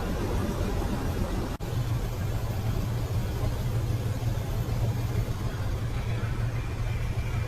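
Heavy truck engines running with a steady low rumble, broken once by a sudden brief dropout about one and a half seconds in.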